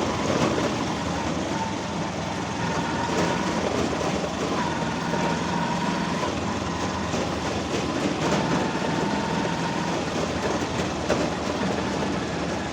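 Steady noise of a moving vehicle, with faint rattling clicks throughout.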